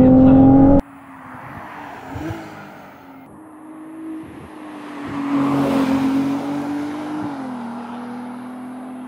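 Ferrari 296 Assetto Fiorano's twin-turbo V6 engine running at steady revs. It drops abruptly quieter about a second in as the shot changes. It then swells louder with a rush of noise around the middle and settles to a lower, steady note near the end.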